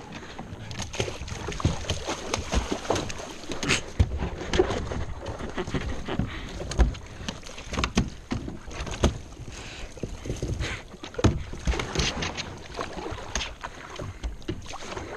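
Canoe under way: paddle strokes splashing in the water, with irregular knocks and bumps against the hull.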